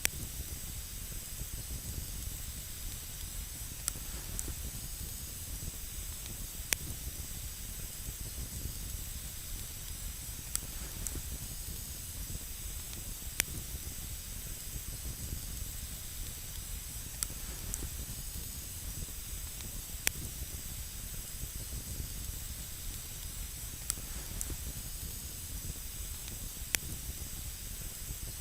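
Wood campfire burning with a steady hiss and a sharp pop or crackle every couple of seconds.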